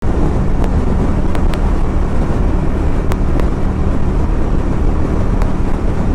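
Motorcycle riding at a steady speed: the engine runs at an even pitch under heavy wind noise on the microphone.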